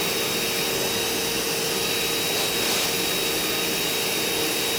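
Steady whir of a small electric motor, with a constant high whine over a lower hum.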